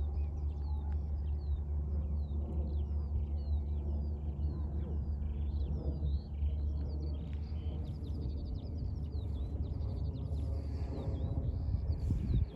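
Small songbirds chirping and singing in many short, quick notes, over a steady low rumble of wind on the microphone.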